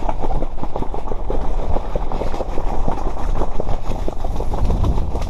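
Heavy wind buffeting the microphone, with a dense, fast rattle of clicks running through it.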